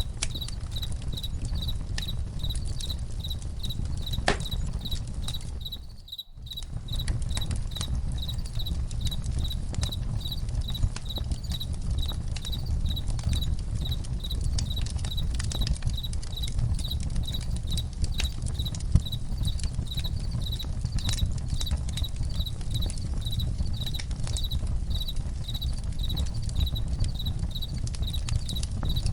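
Campfire crackling, with scattered sharp pops and snaps over a steady low rumble, and crickets chirping in an even pulse of a few chirps a second. The sound drops away briefly about six seconds in.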